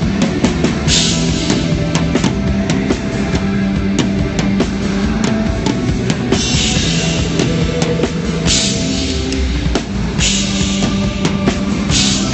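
A live rock band playing at a sound check, with a drum kit keeping a steady beat, repeated cymbal crashes and a held low note underneath.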